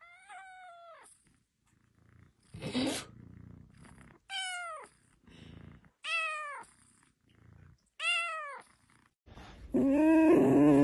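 A cat meowing over and over: short calls that fall in pitch, about one every two seconds, with short breathy sounds between them, then a louder, lower call near the end.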